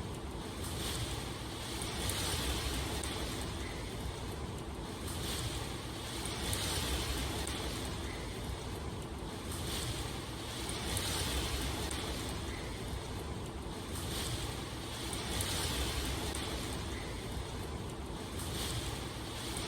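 Steady rain ambience: an even rushing hiss over a low rumble, swelling and easing about every two seconds.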